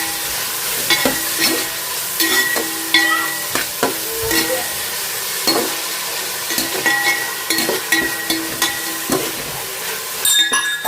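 Food sizzling in a pan while being stirred, with the spoon knocking and scraping against the pan about twice a second. The sizzle thins out near the end.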